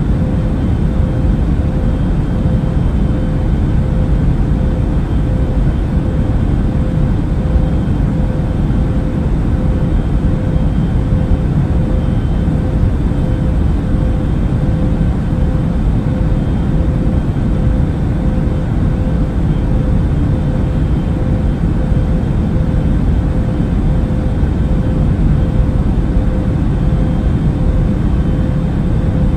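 Airplane cabin noise in flight: a steady, unchanging low rumble with a faint constant hum on top.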